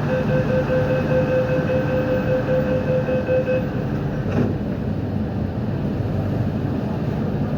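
MTR Kwun Tong line Q-train running between stations, heard from inside the car: steady rumble of wheels on track with a steady pitched whine that cuts off about halfway through, and a single knock just after.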